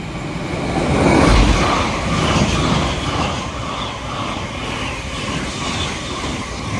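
Thameslink Class 700 electric multiple unit passing through at speed: a loud rumble of wheels on rail and rushing air, loudest about a second in, then a steady run of noise as the carriages go by.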